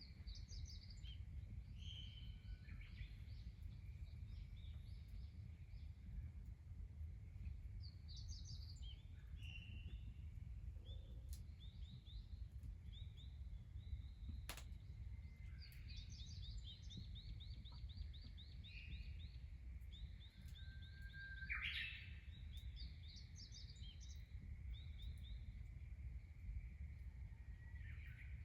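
Small birds chirping and calling, with rapid trills running through the second half, over a steady low rumble; a single sharp click about halfway through.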